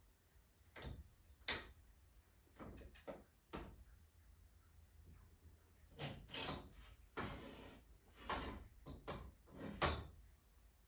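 Scattered knocks, clicks and short scrapes of metal hardware and tools being handled during garage door torsion spring work, with sharp knocks about a second and a half in and near the end.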